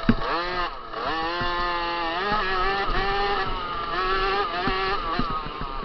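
50cc two-stroke motocross bike engine revving hard, its pitch dropping and climbing twice in the first second or so as the throttle is shut and opened again, then held high with brief dips. Sharp knocks come through it, the loudest right at the start.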